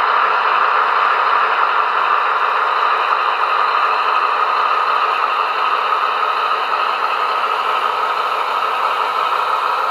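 Sound-equipped Märklin VT 11.5 model train playing its diesel-engine sound effect through small onboard speakers, a steady engine drone with no deep bass.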